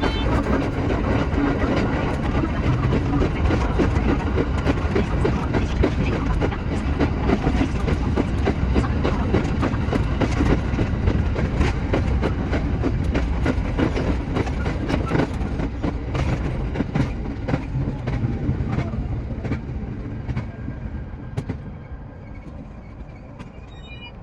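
Shinano Railway SR1-series electric train running, its wheels clicking over rail joints, the running noise dying away over the last several seconds as it slows.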